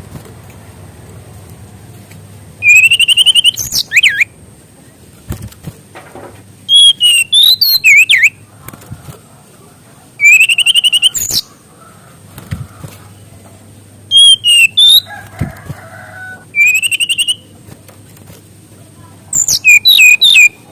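Brown-chested jungle flycatcher (SRDC) singing loud, separate song phrases, about six in all, each a second or so of rising whistled trills and quick notes with short pauses between.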